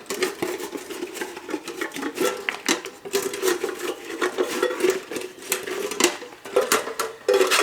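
Honeybees buzzing around the microphone, a wavering hum from an agitated colony, mixed with repeated metallic clinks and knocks from a bee smoker being handled and loaded with fuel.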